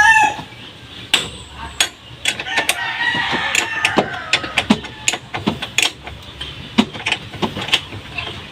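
A rooster crows, its call tailing off just after the start, amid scattered sharp clicks and knocks.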